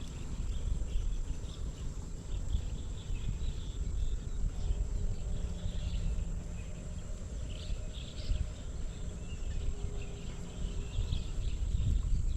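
Spotted dove cooing faintly in low, steady notes, over a loud low rumble, with high chirps from small birds or insects scattered throughout and a thin steady high whine.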